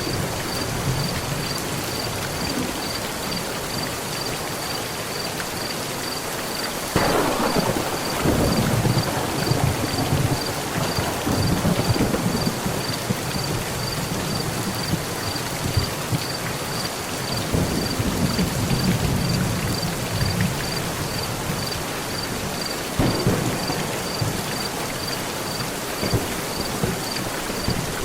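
Heavy rain drumming steadily on a metal roof, with a sharp thunderclap about a quarter of the way in that rolls on as rumbling for several seconds, another rumble in the middle and a further crack near the end. A faint high chirp repeats about twice a second throughout.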